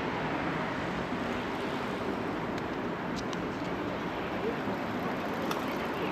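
Steady outdoor city ambience dominated by the hum of road traffic, with a few faint clicks.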